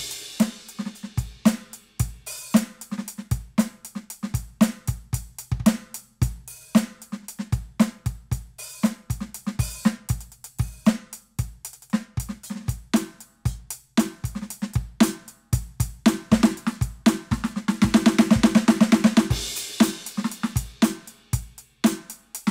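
Roland TD-17KVX electronic drum kit played as a drum groove: kick, snare, hi-hat and cymbals, through the module. About eighteen seconds in there is a fast, dense roll lasting a second or two.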